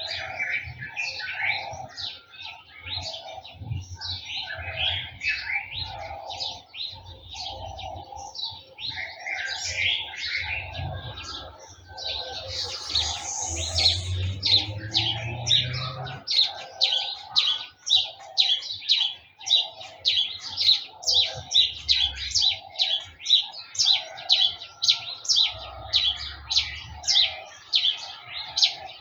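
Several garden birds chirping and singing together. About halfway through, one bird takes over with a sharp chirp repeated steadily, nearly twice a second.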